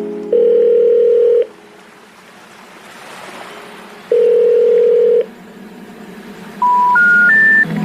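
Electronic beeps from a washing machine's control panel: two long, steady beeps a few seconds apart, then three short beeps stepping up in pitch near the end.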